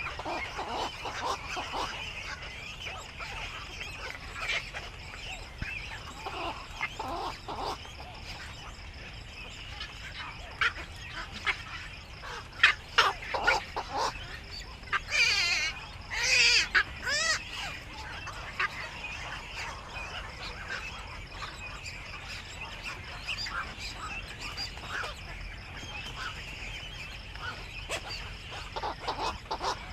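Black-crowned night herons calling at the nest: a string of short, harsh honking squawks, louder and more crowded about halfway through.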